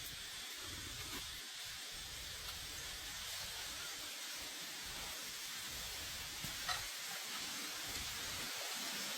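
Food frying with a steady sizzle, growing slightly louder, with one brief click about seven seconds in.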